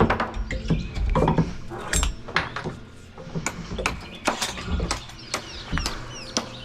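Irregular sharp knocks and metallic clinks of hand tools and nails on wood during deck demolition, about a dozen separate hits with no steady rhythm.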